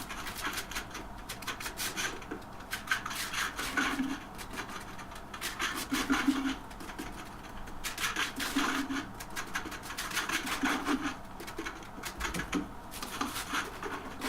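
Repeated scraping and rubbing of hand tools on tile and adhesive during tiling work, in strokes about a second long with short pauses between them.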